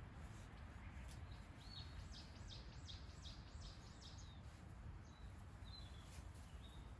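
A small bird calling faintly: a quick run of about seven high notes, then a few fainter single notes, over a steady low background hiss.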